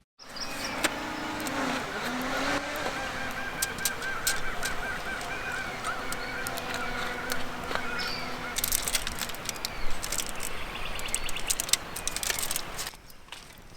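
Birds calling, with repeated wavering calls over a steady outdoor background and scattered sharp clicks.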